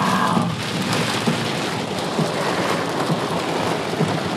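Heavy rain hitting the roof and windscreen of a car, heard from inside the cabin: a dense, steady hiss full of small ticks from the drops.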